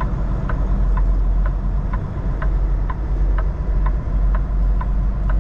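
Semi truck's diesel engine running at low speed, heard as a steady rumble inside the cab, with the indicator flasher clicking evenly about twice a second.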